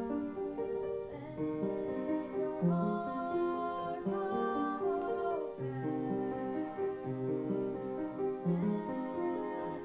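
Piano playing a slow original song, with held chords and a melody that changes every second or so.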